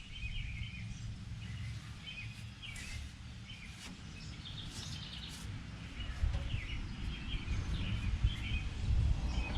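Small birds chirping and twittering repeatedly over a steady low rumble, with a few faint clicks around the middle.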